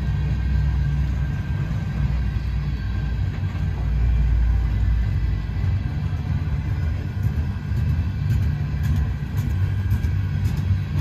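Freight train of covered hopper cars rolling past, a steady low rumble of steel wheels on rail that swells about four seconds in, with a few sharp clicks in the second half.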